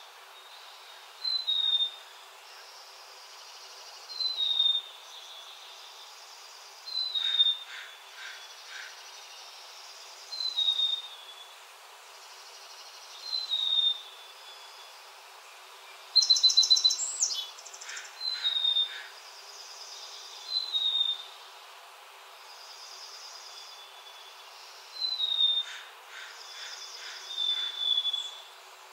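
A bird repeating a short, falling whistle about every three seconds, with a louder, harsher call about halfway through and brief clusters of ticks now and then, over a steady faint hiss of open-field background.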